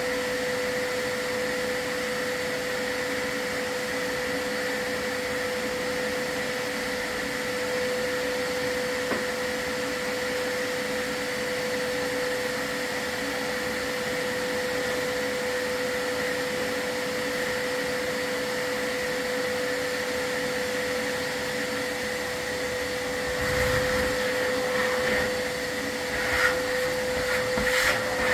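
Vacuum running steadily with a constant whine and rush of air. A few knocks and rattles come in over it near the end.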